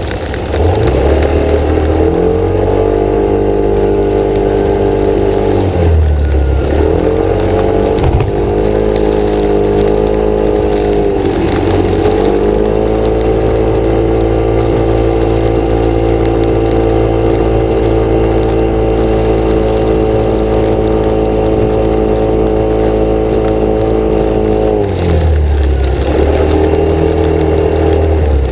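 An engine running loudly, its pitch dropping and rising again a few times: easing off about six seconds in and again about three seconds from the end, then holding steady for a long stretch in between.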